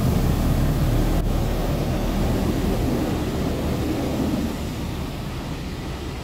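Car wash: a steady rushing of water spray with a deep rumble, and a single sharp click about a second in.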